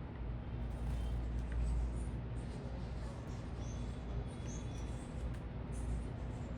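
Small birds giving a few short, high chirps about halfway through, over a steady low city rumble.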